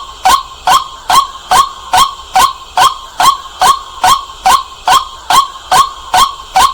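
White-breasted waterhen calling, a loud short 'kwak' note repeated at an even pace, about two and a half calls a second.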